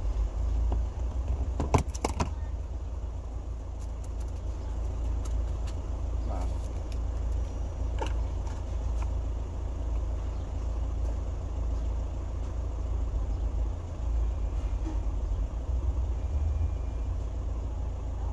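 The 1.9-litre four-cylinder turbodiesel of a 2006 Volkswagen Jetta TDI idling, a steady low rumble heard inside the cabin; the owner finds it louder than it should be and wonders whether it is an exhaust leak. A few sharp clicks sound about two seconds in.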